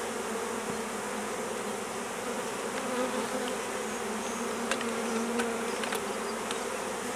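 Swarm of honey bees buzzing around a hive box: a steady, dense hum with a held drone-like tone, and a few faint clicks over it.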